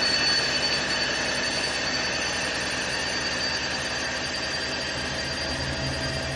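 Candy washing machine on its spin cycle: a steady mechanical whir with high whining tones, slowly getting quieter.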